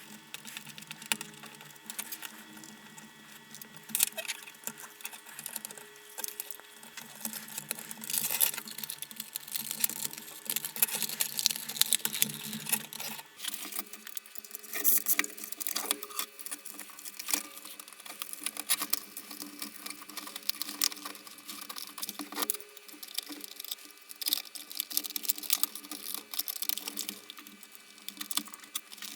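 Irregular clicks, taps and light scrapes of the lantern's plastic housing and its screws being handled and fitted back together during reassembly.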